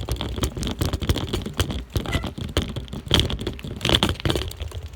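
Bicycle rattling and clattering over rough ground, a dense run of irregular clicks and scrapes over a low rumble.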